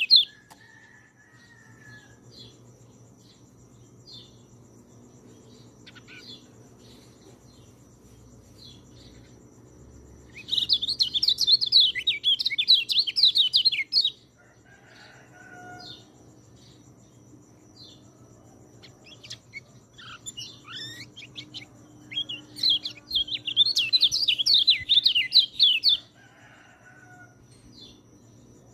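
Peleci songbird singing: two loud, rapid warbling phrases, each about three and a half seconds long, about ten seconds in and again near the end, with soft scattered chirps in between. A faint steady high insect-like tone and a low hum run underneath.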